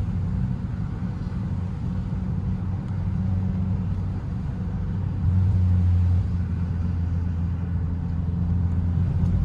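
A 9th-generation Honda Civic's engine and exhaust running with a steady low drone, swelling louder for about a second around five seconds in.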